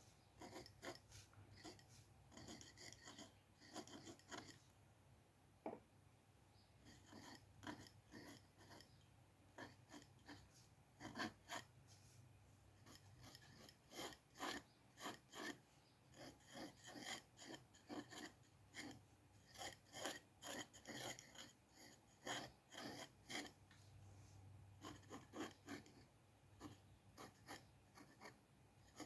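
A drawing tool scratching across paper in many short, quick strokes that come in irregular runs, with a brief lull about five seconds in. A faint low hum runs underneath.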